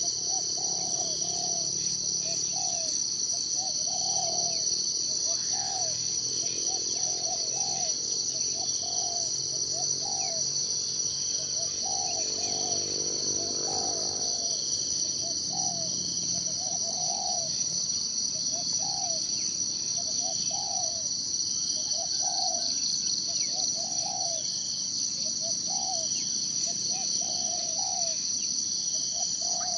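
Insects trilling steadily in a high, slightly pulsing drone, while a bird repeats a short, low call roughly once a second.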